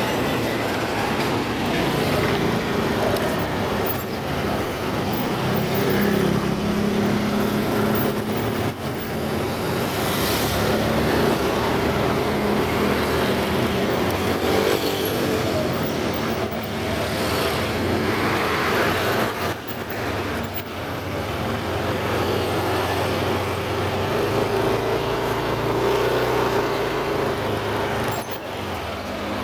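Motorcycle engine running while riding, with steady road and wind noise; the engine's pitch shifts now and then as the speed changes.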